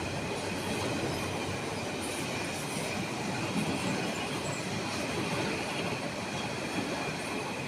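Flat wagons of a container freight train rolling past at close range: a steady rumble of steel wheels on rail with a thin, steady high squeal from the wheels.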